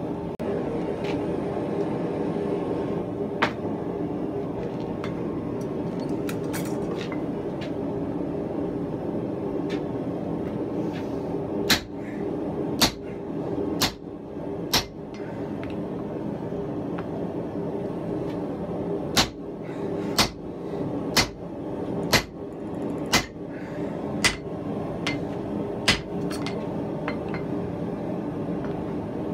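Hand hammer striking hot steel on an anvil: a few light taps, then a run of four blows about a second apart, and later a steadier run of about eight blows at roughly one a second. A steady low roar runs underneath.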